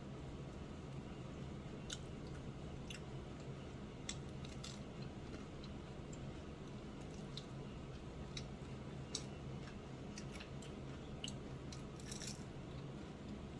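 A person eating: quiet chewing with scattered small clicks and crunches at irregular intervals, a short flurry of them near the end, over a steady low hum.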